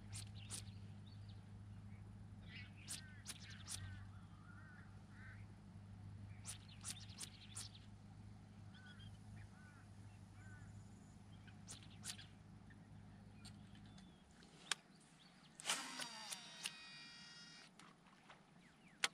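Birds calling with short chirping notes over a low steady hum that cuts off about fourteen seconds in. Near the end a short whirring sound falls in pitch.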